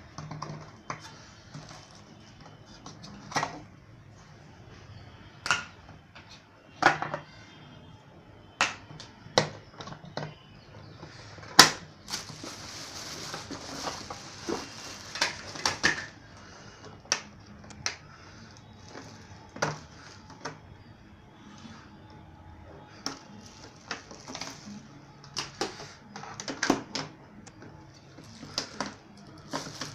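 Irregular sharp clicks and knocks of plastic parts of a Eureka Forbes vacuum cleaner and its packaging being handled, with a few seconds of rustling near the middle.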